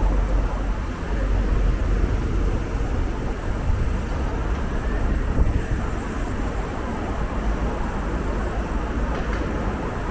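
Steady low wind rumble on the microphone of a camera riding on a moving bicycle, over a haze of city traffic noise.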